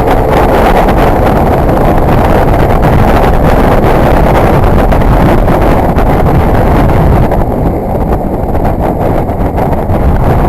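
Heavy wind rush on the microphone of a motorcycle riding at speed. It eases a little about seven seconds in.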